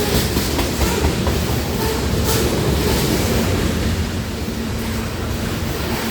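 Loaded grain train rolling past at speed, a steady rumble of steel wheels on rail with clicks as the wheels cross rail joints.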